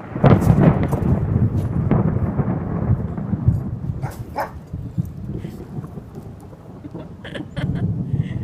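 Close thunder: a sudden loud crack at the start, then a long low rumble that fades over several seconds and swells again near the end.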